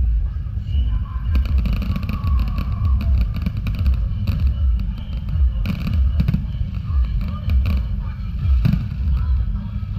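Aerial fireworks bursting overhead: a continuous low rumble of booms, with dense crackling of the stars starting about a second in.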